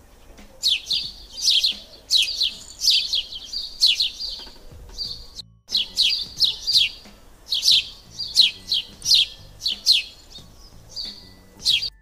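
Small songbird chirping: short, bright, falling chirps in quick runs, broken by a brief silence a little past halfway.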